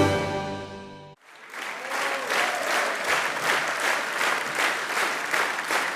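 Background music with sustained tones fades out in the first second. A group then claps, a steady patter of applause that lasts to the end.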